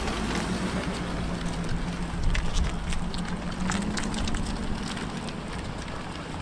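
Car engine running at low revs, with a short swell in its low rumble about two seconds in. Scattered small ticks and crackles run over it.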